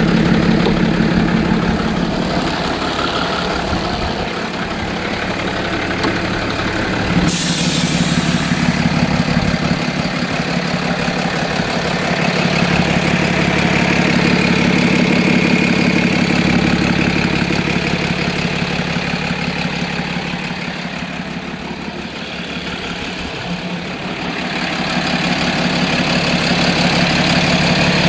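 Freightliner bucket truck's Cummins 6.7 inline-six turbodiesel running steadily at idle, its level drifting up and down. A brief hiss cuts in about seven seconds in.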